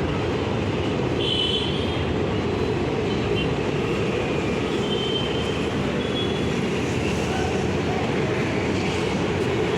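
Passenger express train rolling out of the station, its coaches passing in a steady, even rumble with a few brief high squeals.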